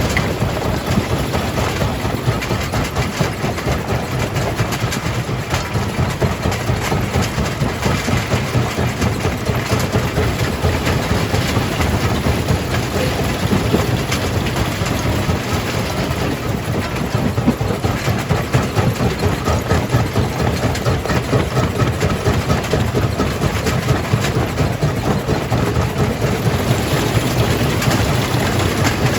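Jaw crusher running and crushing rock: a dense, continuous clatter of breaking stone over a steady low machine drone.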